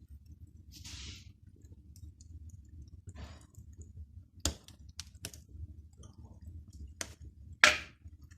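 Scattered sharp clicks and knocks of hard objects a second or two apart, the loudest near the end, with a couple of soft scrapes earlier, over a low steady rumble.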